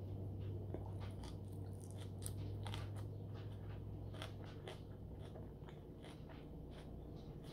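A person chewing and biting into a hand-held wrapped roll close to the microphone, a fairly quiet run of many small sharp clicks and wet mouth sounds.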